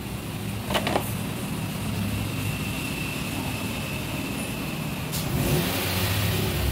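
A car engine running steadily, with a couple of sharp taps about a second in. From about five seconds in, liquid splashes as it is poured from a plastic bottle into the fuel pump's filter housing to flush out dirt.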